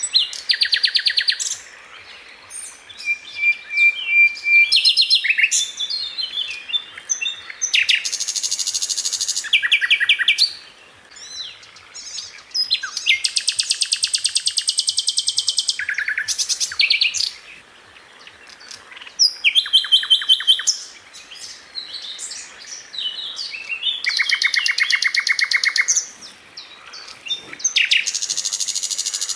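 Sikatan londo flycatcher singing: bursts of rapid, tightly spaced repeated notes, each burst one to two seconds long, separated by short pauses.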